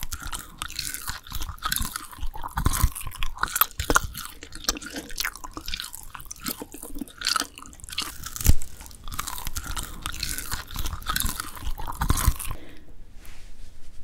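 Close-miked chewing and crunching of dried filefish fillet: dense, irregular crisp crunches and mouth clicks with a few louder bites, stopping shortly before the end.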